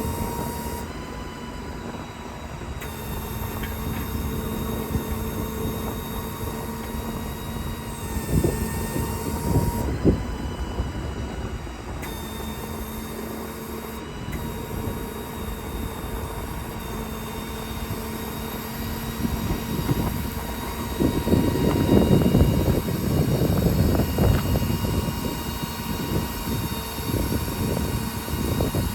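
Hydraulic system of a truck-mounted crane running off a Ford 6.7 Power Stroke diesel: a steady pump whine over the engine's rumble, with a couple of sharp clunks and a louder, rougher stretch about three quarters of the way through as the crane or outriggers are worked.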